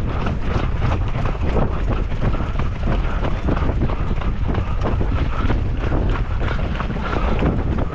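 Strong wind rumbling steadily on the microphone of a runner's camera, with a quick, even patter of footfalls at roughly three a second.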